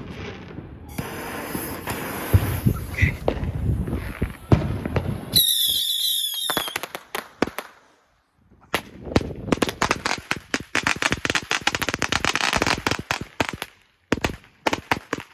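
Fireworks going off: scattered bangs and pops, a shrill wavering whistle about five seconds in, then a long rapid string of firecrackers crackling in the second half.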